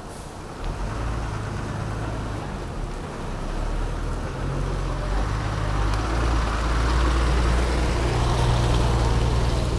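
A motor vehicle's engine running close by, a steady low hum that grows louder over the last few seconds, over an even hiss of traffic noise.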